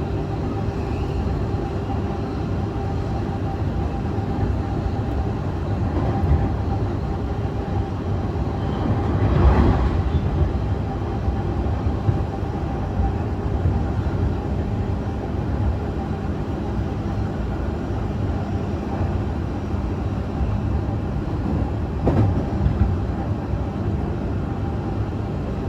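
JR East E531 series electric train with Hitachi IGBT inverter motors running at speed between stations, heard from inside the car: a steady rumble of wheels on rail under a faint held motor tone. There are a few rail-joint knocks, and the running noise swells louder about nine to ten seconds in.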